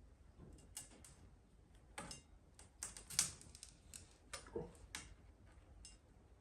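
A series of irregular light clicks and taps, a dozen or so at uneven spacing, the loudest about three seconds in.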